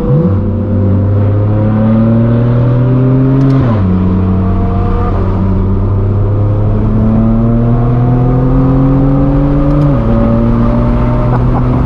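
Straight-piped BMW M4 F82's twin-turbo inline-six, with an AWE non-resonated track exhaust, pulling hard through the gears. The note climbs steadily and drops sharply at two upshifts, about 4 seconds and 10 seconds in, then climbs again.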